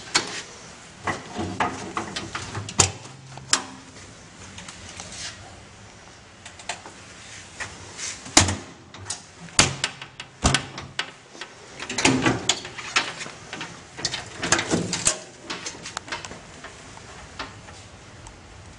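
Irregular knocks, clicks and clunks, like compartment doors and equipment being handled. The loudest knock comes a little past eight seconds in, with a cluster of clatter around twelve and fifteen seconds.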